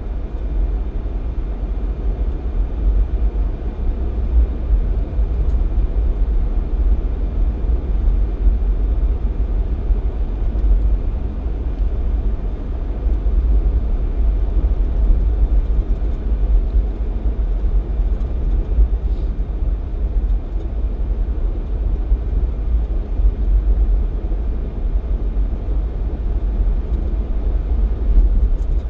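Jeep Cherokee XJ driving along, a steady low rumble of engine and road noise with no changes.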